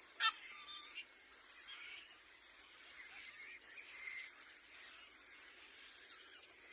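Little black cormorants at the nest: one short, sharp call about a quarter second in, then faint, scattered high squeaky calls.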